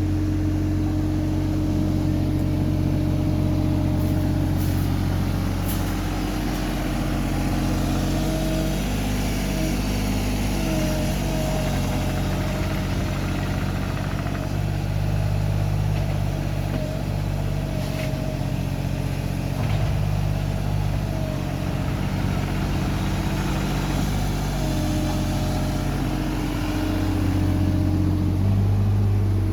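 A motor vehicle's engine running steadily, its speed shifting slightly up and down every few seconds.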